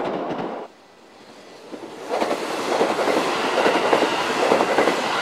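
Kintetsu limited express electric trains passing at speed, wheels rumbling and clicking over the rail joints. The first pass cuts off less than a second in, and a second pass builds up about two seconds in.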